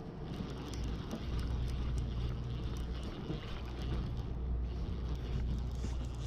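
Boat engine running with a steady low drone, under a haze of wind and water noise.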